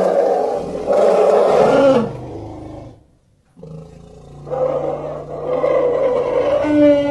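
African elephants roaring: one loud call breaks off about two seconds in, and after a short quiet gap a second long call rises in pitch near the end.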